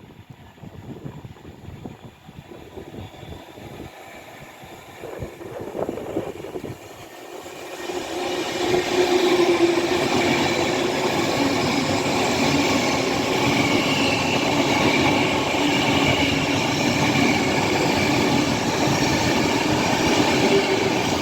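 Class 390 Pendolino electric train passing through at speed. Its sound builds over the first several seconds, then from about eight seconds in becomes a loud steady rush of wheels on rail with a whining tone.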